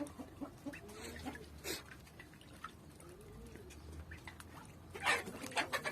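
Faint splashing and small ticks from domestic birds bathing in a shallow water basin, with one soft low call about three seconds in.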